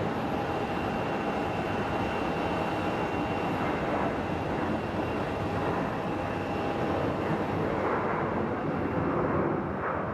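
Jet aircraft engines running at an airport: a steady rush of engine noise with a faint high whine through it, the highest part easing after about seven seconds.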